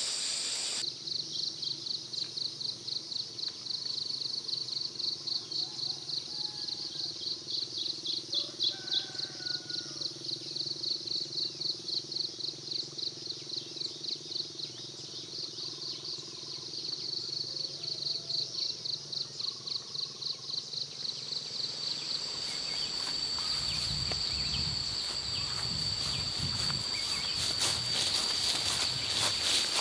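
Insects chirping high in a fast, pulsing rhythm, with a few faint bird calls. A little over twenty seconds in the pulsing gives way to a steady high insect buzz, with rustling and clicks alongside.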